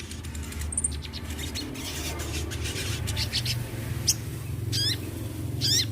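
A crimson sunbird (sogon) singing: a run of quick, sharp high chips, then short, high zigzagging warbled phrases about four seconds in and again near the end, over a steady low hum.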